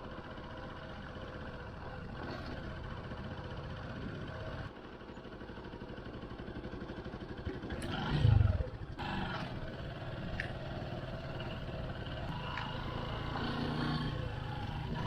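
Motorcycle engine running during a ride. The sound changes abruptly twice where clips are cut together, and there is a brief loud low rumble about eight seconds in.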